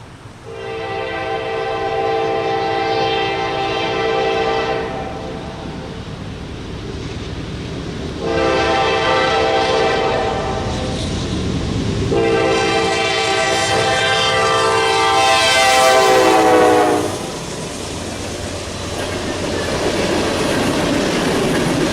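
The multi-note air horn of a GE Dash 9 diesel locomotive blows three extremely loud blasts, echoing off a wall: a long one, a shorter one, then a long one whose pitch drops near its end as the locomotive passes. Freight cars rumble and clack over the rails underneath and after the horn.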